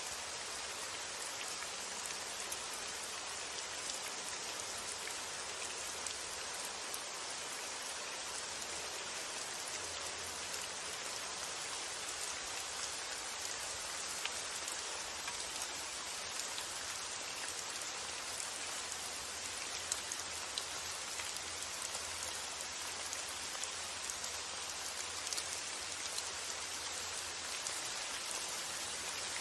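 Steady rain falling: a dense, even hiss with scattered sharp ticks of single drops, over a faint low rumble of wind.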